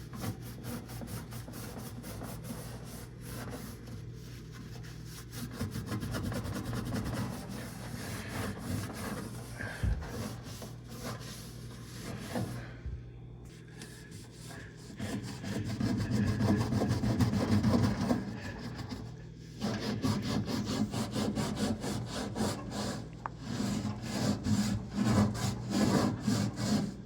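Hand scrubbing the inside of a microwave, rapid back-and-forth rubbing strokes against stuck-on grime, getting louder and more vigorous in the second half.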